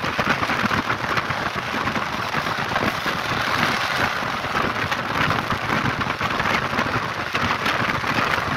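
Passenger train running along the track, heard from inside the carriage: a steady rushing noise of wheels on rail and air, with dense fine rattling throughout.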